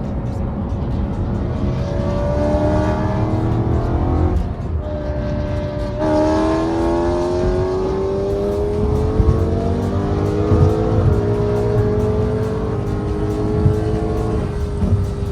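Straight-piped BMW E92 M3's V8 accelerating hard. The exhaust note climbs in pitch through the revs and drops back at each of several gear shifts, about four and a half, six, eleven and fourteen and a half seconds in.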